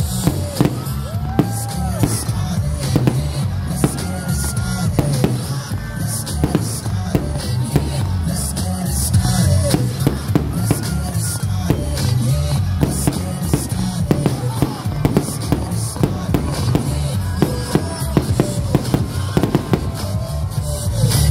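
Aerial fireworks bursting in many sharp bangs throughout, over loud music with a heavy, steady bass.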